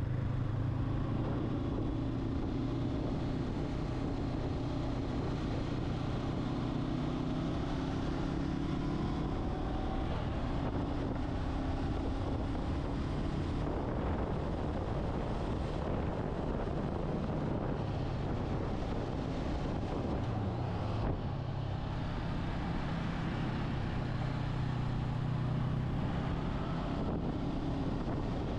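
Motorcycle engine running under way, with wind rushing over the microphone; the engine note fades into the wind noise for a while in the middle and comes back strongly near the end.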